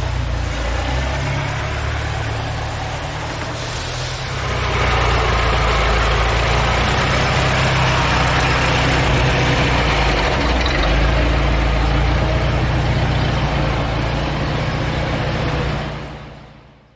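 Car engine running through its newly finished exhaust, steady at first, then louder from about four and a half seconds in and holding there, fading out near the end.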